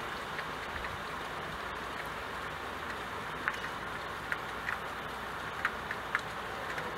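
Steady hiss of rain falling on a window, with a few sharp drip ticks scattered through the second half.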